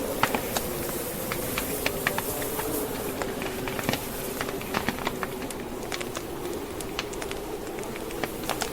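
Burning logs in a fireplace crackling, with sharp irregular pops, over the steady howl of blizzard wind.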